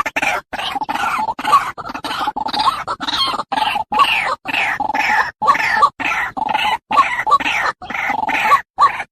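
White-breasted waterhen calls: a dense run of repeated croaking and grunting notes with a sharp, higher note recurring every half second or so. The run is chopped by frequent abrupt short silences, as in an edited mix of recorded calls.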